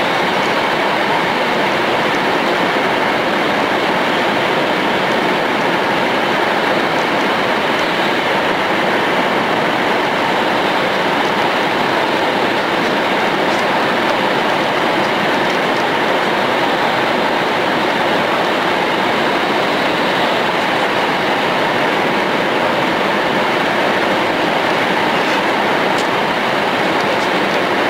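Tohoku Shinkansen train running at speed: a steady, loud rushing rumble of wheels, track and air, heard from on board.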